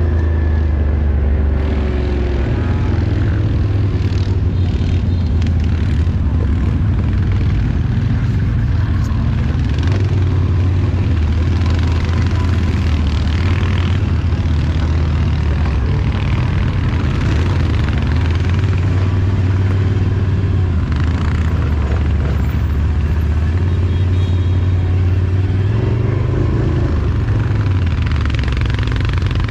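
Off-road vehicle engine running steadily while riding, its low drone shifting in pitch a few times as the throttle changes.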